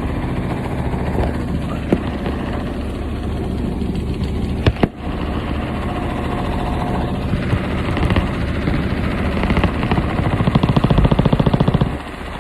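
Washing machine running and vibrating hard, with a steady rumble and rattling, one sharp knock a little under five seconds in. From about eight seconds in the rattling turns into a rapid, louder hammering that cuts off suddenly near the end.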